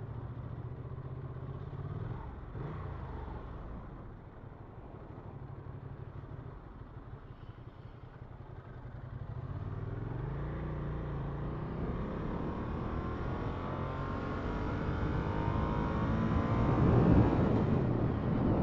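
2007 Ducati Monster 695's air-cooled V-twin engine running at low revs, then accelerating hard from about ten seconds in, rising in pitch through the gears and loudest near the end.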